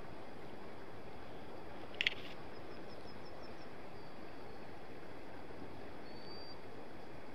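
Wild birds calling over a steady background hiss. A sharp double call comes about two seconds in, then a quick run of about six thin, high chirps, and near the end a short, high, rising whistle.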